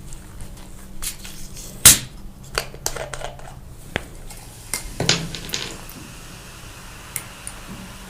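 Close-up eating-show sounds: a scatter of sharp clicks and taps from handling and biting into pizza at the table, the loudest about two seconds in, thinning out over the last couple of seconds.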